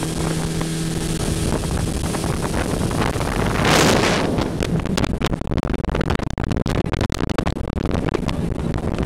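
Motorboat engine running with wind buffeting the microphone. The steady engine hum fades after about two and a half seconds, a loud gust rushes through about four seconds in, and crackling buffeting follows.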